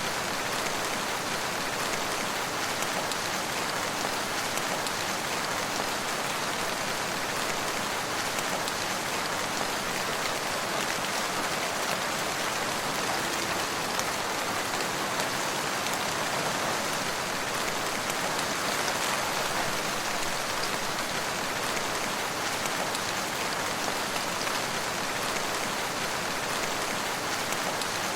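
Steady rainfall, a dense even patter of drops falling on surfaces.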